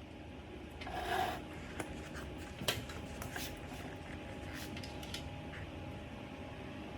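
Light handling noises of hand repair work: a short scrape about a second in, then a sharp click and a few fainter ticks, over a steady low hum.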